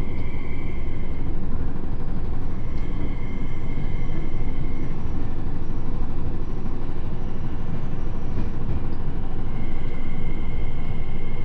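Tokyo Metro 7000 series train heard from inside the car on the approach to a station: a steady, loud rumble of wheels on rail, with the faint high whine of its Hitachi IGBT inverter and traction motors fading in and out.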